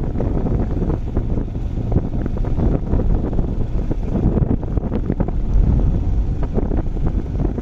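Heavy wind buffeting the microphone of a moving motorbike, a loud, uneven low rumble full of crackles that masks any engine sound.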